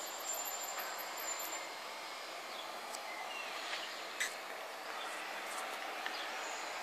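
A steady, even drone of unknown origin, the 'strange noise in the sky' the recorder is asking about. Faint brief chirps and a couple of small clicks sound over it.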